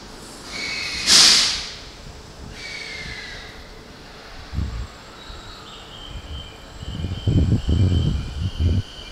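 Electric commuter train moving off at a station platform. A sharp burst of air hiss comes about a second in, then a faint steady whine and low thuds and rumble from the running gear, heaviest in the last two seconds.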